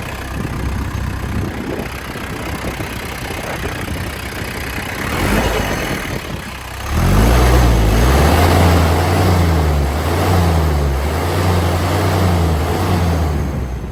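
2010 New Holland T2320 compact tractor's diesel engine running at idle with the hood open. It runs smoothly and gets louder and deeper about halfway through.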